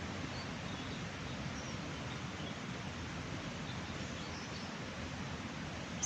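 Steady rush of a mountain stream or waterfall, with a few faint bird chirps scattered through it.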